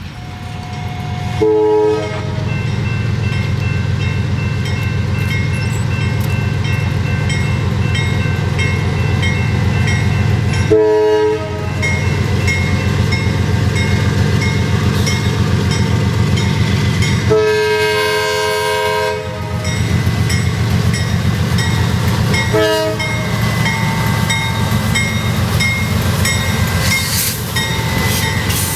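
Multi-locomotive diesel freight train running past with a steady low engine rumble, its horn sounding four blasts: short, medium, one long of about two seconds, then short. A high ding repeats about twice a second, like a bell, through most of it.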